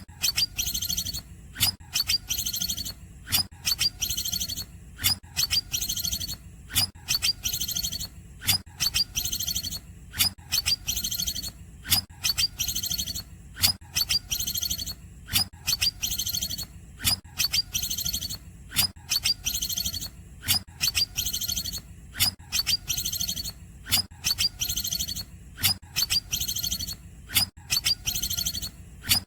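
Green leafbird (cucak ijo) singing a cungkok-style call. A short, sharp phrase of high chirps and trills repeats at an even pace, roughly once a second.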